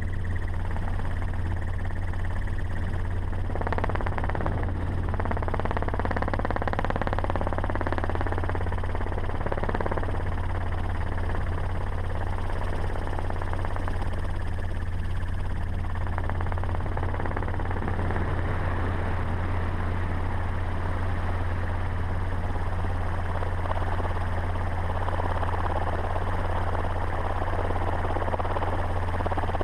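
Helicopter running, a steady low drone, with rising and falling engine tones between about four and ten seconds in.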